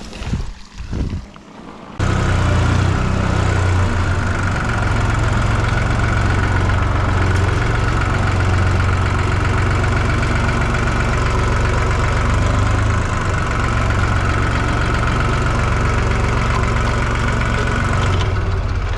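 Forklift engine running steadily at a constant speed. It cuts in abruptly about two seconds in.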